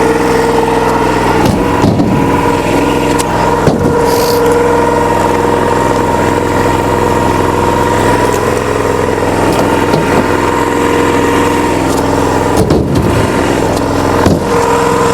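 American log splitter's engine running steadily with a steady whine. The sound shifts briefly a little after the start and again near the end.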